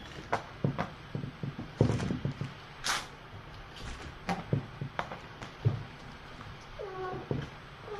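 Kittens playing, with scattered knocks and thumps, then a cat meowing twice near the end, each call falling in pitch.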